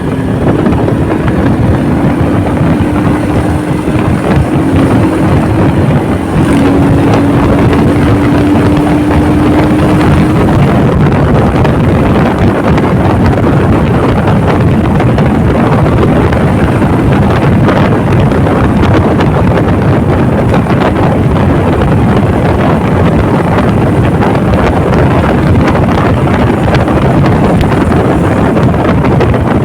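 Heavy wind buffeting on the microphone of a moving motorcycle, loud and steady. For about the first ten seconds the engine's steady, slowly rising note is heard under the wind, after which the wind drowns it.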